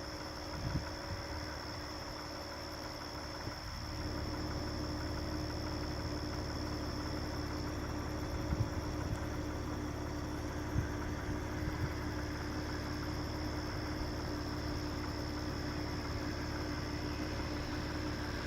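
Car engine running steadily with a low rumble that grows slightly louder about four seconds in, under a steady high-pitched insect drone, with a few soft thumps.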